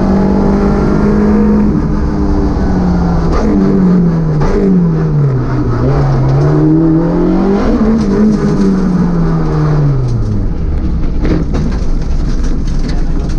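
Citroën Saxo VTS rally car's four-cylinder engine, heard from inside the car as it slows from about 60 mph. The engine note holds steady, then falls and rises twice through the downshifts and settles to a low idle about ten seconds in. Scattered clicks and crackles follow as the tyres roll onto gravel.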